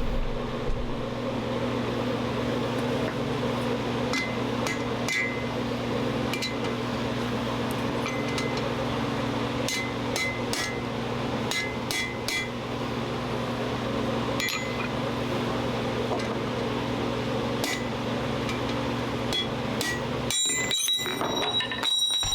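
Scattered light metallic clinks and taps of blacksmith's tools and steel against a steady mechanical hum from the forge, with a ringing metal clink near the end.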